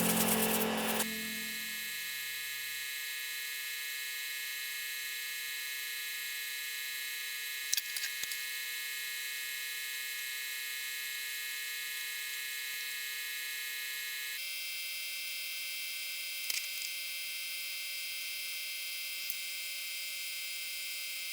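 Background music ending in the first second or two, then a steady electrical hum made of several high, even tones, with a few faint clicks. The tones shift slightly about fourteen seconds in.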